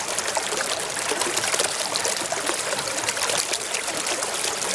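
Water trickling and splashing steadily as a mud-covered toy JCB is rinsed clean.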